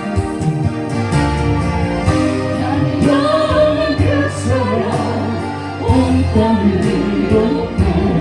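Korean gospel praise song: accompaniment with a steady beat and a sung melody line between the lyric phrases.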